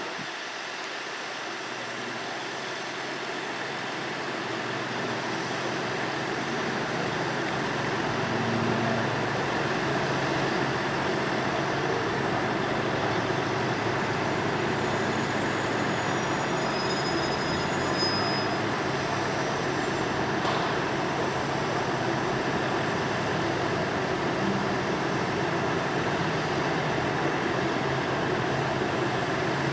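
A train running: steady mechanical rumble with a low engine hum, building over the first several seconds and then holding steady.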